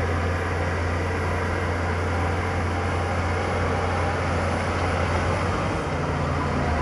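Heavy diesel engine of earthmoving machinery running steadily with a low drone; its note shifts slightly about six seconds in.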